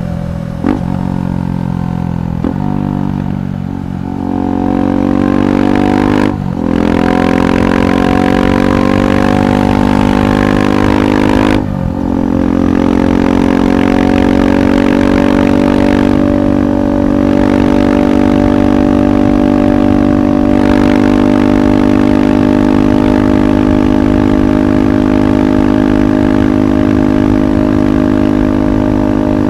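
KTM 390 Adventure SW's single-cylinder engine running through a Red Rooster aftermarket exhaust while riding. It pulls up through the gears, with a brief break at each of several shifts in the first dozen seconds, then settles into a steady cruising note.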